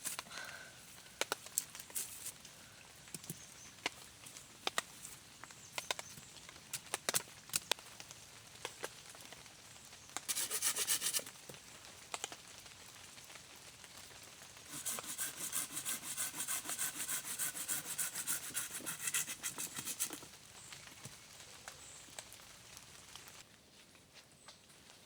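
Work on wood: scattered clicks and knocks, a short burst of rasping about ten seconds in, and a longer stretch of fast, even rasping strokes from about fifteen to twenty seconds.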